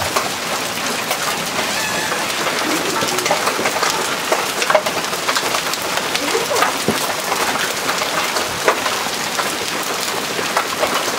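Hailstorm with heavy rain: a steady hiss of rain, dense with sharp ticks and knocks of hailstones striking, a few of them louder than the rest.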